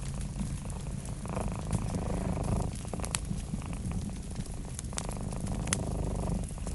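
Domestic cat purring steadily, the purr swelling and fading with its breaths, over a crackling wood fire that gives a few sharp pops.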